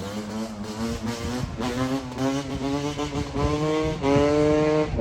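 Two-stroke dirt bike engine revving in a quick series of short rising blips, climbing in pitch overall and loudest near the end.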